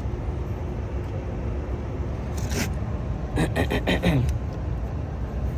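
Steady low background rumble with a few short scrapes and clicks around the middle.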